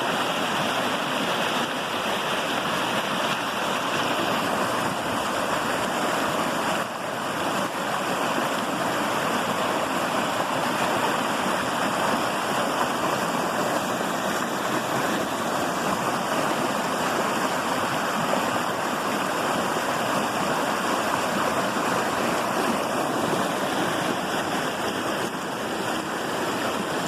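Small woodland stream running steadily, water splashing and rushing over rocks and a little natural dam of rocks, sticks and leaves.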